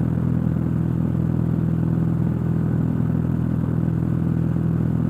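Cessna 172's piston engine and propeller running steadily in flight, heard as a constant drone inside the cockpit.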